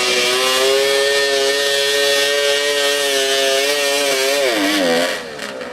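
High-revving snowmobile engine of a modified lawn tractor running flat out under load while pulling a sled. Its pitch wavers and falls away about four seconds in, and the sound drops off sharply just after five seconds as the pull ends; the tractor then has to be towed off, and the announcer fears something is broken.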